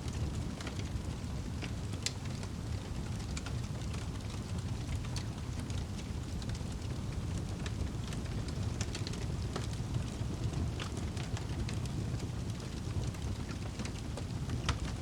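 Wood fire burning in a fireplace: a steady low rush of flames with scattered sharp crackles and pops from the burning wood.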